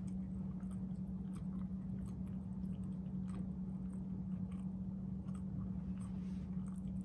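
A person chewing a mouthful of food with the mouth closed, giving soft, irregular mouth clicks, over a steady low hum.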